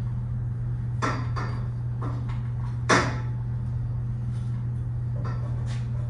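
A few sharp knocks and taps of metal parts and tools being handled on a workbench, the loudest about three seconds in, over a steady low hum.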